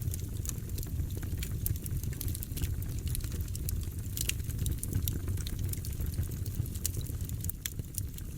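Wood fire burning in a fireplace: a steady low rumble of flames with frequent, irregular sharp crackles and pops from the logs.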